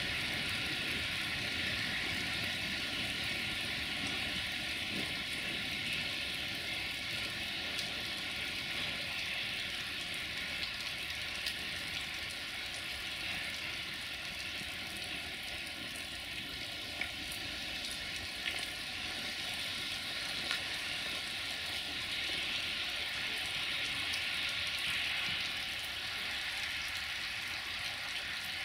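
Steady hiss of falling rain, with a few faint clicks.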